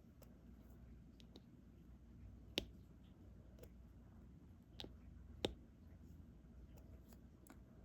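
Light, sharp clicks of a diamond painting pen picking up resin drills and pressing them onto the canvas, a few at irregular intervals, three of them louder in the middle stretch.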